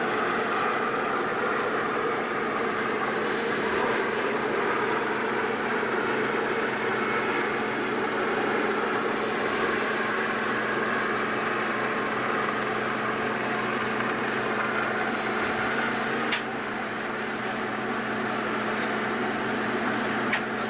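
Steady mechanical running noise with a low hum, broken by a sharp click about sixteen seconds in and another near the end.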